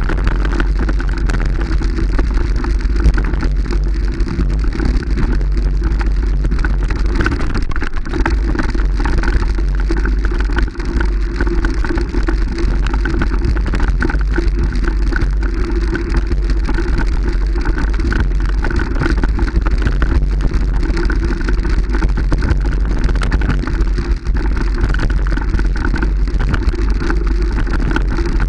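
Steady noise of a moving vehicle, with heavy low wind rumble on the microphone.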